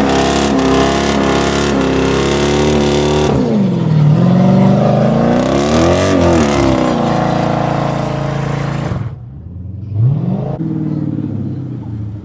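Car engines revving in a few short cuts: first an engine held at high revs with a lot of noise, then an engine's pitch dipping, climbing and falling again, and near the end a quieter, quick blip of revs.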